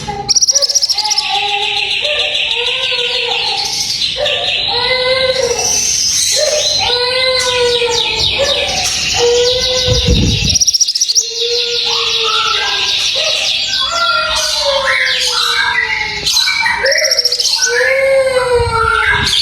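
A mantenan songbird singing a loud, rapid burst of song: arched whistled notes repeated over and over above a continuous high buzzing trill. A low thump about ten seconds in.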